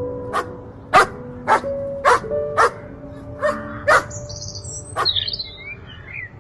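A dog barking in short, sharp barks, about eight of them, the first five evenly spaced about half a second apart, over background music. Faint bird-like chirps come in over the second half.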